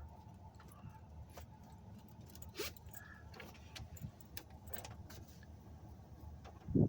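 Steady low rumble of a touch-free automatic car wash heard from inside the car's cabin, with scattered light clicks and a brief louder thump near the end.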